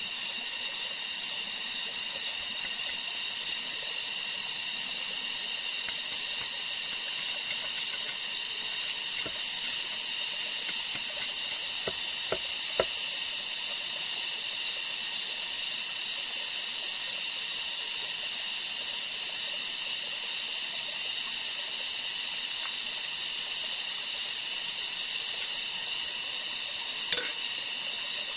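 Steady, high-pitched chorus of rainforest insects, a continuous shrill hiss with several held tones in it, with a few faint clicks or taps.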